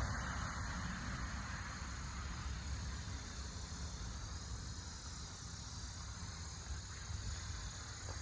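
Steady outdoor background noise: a low rumble with a faint high hiss, easing off slightly in the first second.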